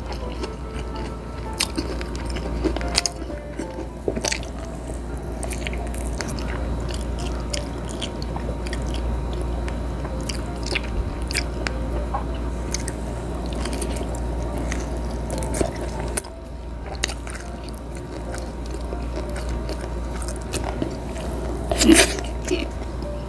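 Close-miked chewing and biting of grilled squid and pork belly: wet mouth clicks and smacks over steady chewing, with a louder smack as food goes into the mouth near the end.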